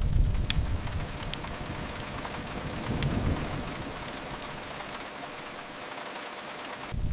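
Steady rain pattering, with scattered sharp crackles and pops from a fireplace, over a low rumble that is strong at the start, swells again about three seconds in and returns near the end.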